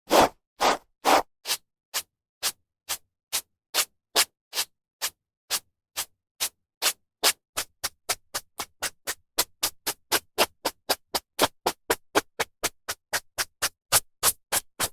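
Hairbrush strokes through hair: short, dry brushing swishes repeating at about two a second, then coming quicker, about four a second, from around eight seconds in.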